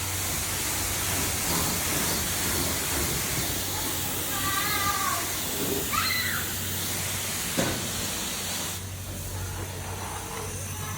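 Self-serve car wash high-pressure spray wand hissing as it sprays water, cutting off about nine seconds in. A short knock a little before that.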